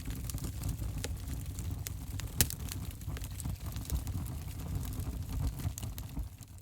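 Wood fire burning in an open fireplace: a steady low rumble of flames with scattered sharp crackles and pops, the loudest about two and a half seconds in. The sound fades near the end.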